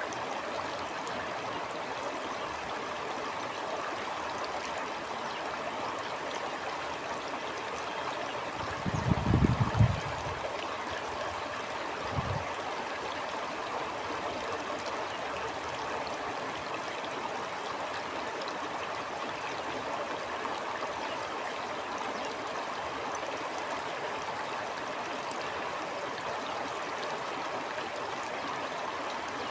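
Stream flowing steadily, an even rush of water. About nine seconds in comes a loud low rumble lasting about a second and a half, with a shorter one a couple of seconds later.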